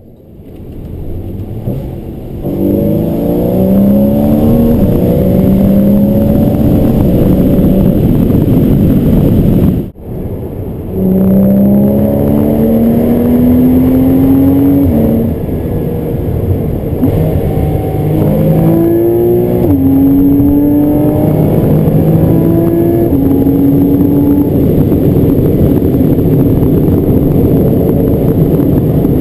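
Porsche Boxster S 981's 3.4-litre flat-six engine and exhaust under acceleration. The pitch climbs and drops back at each of several upshifts, with a brief break partway through, then settles into a steadier note near the end.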